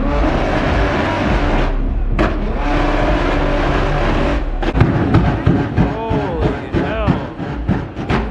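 Car engines at full throttle, a loud steady rush that breaks off twice. Then about five quick revs, each rising and falling, with sharp exhaust pops and crackles between them.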